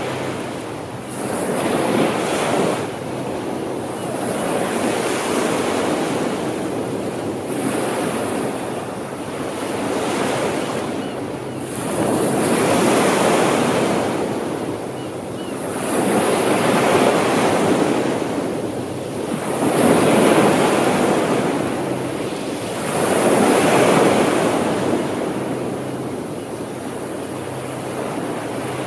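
Ocean waves breaking and washing up the shore, each surge swelling and falling away every three to four seconds.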